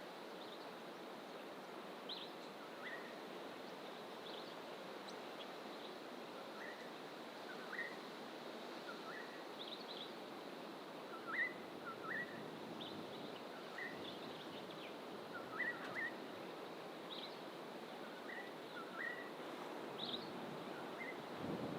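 Many short bird chirps, some low and some higher, every second or so from several distant birds in coastal fynbos bush, over a steady low hiss of background noise such as distant surf.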